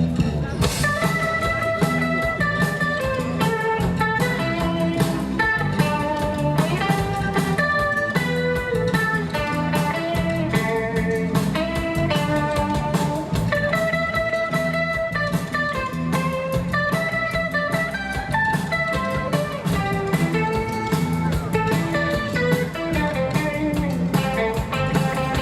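Live rock band playing an instrumental passage: a melodic electric guitar lead with held and bending notes over bass guitar and drums.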